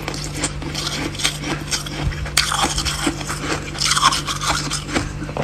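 Freezer frost being scraped and crunched: a quick, irregular run of scratchy crunches, over a steady low hum.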